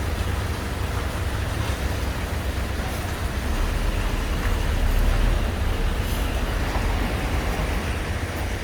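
Steady low vehicle rumble, swelling for a couple of seconds around the middle.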